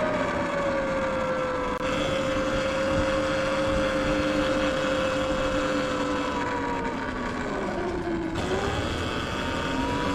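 Electric dirt bike riding, its motor whining with wind and tyre noise. The whine drops in pitch at the start, holds steady, dips about eight seconds in as the bike slows, then climbs again as it speeds up.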